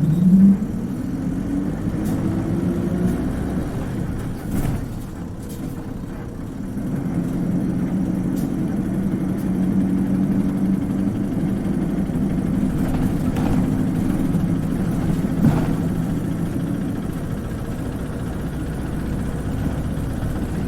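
Isuzu Cubic KC-LV380N city bus engine heard from inside the cabin. Its pitch rises over the first few seconds, then it runs steadily under way. A few brief knocks are heard.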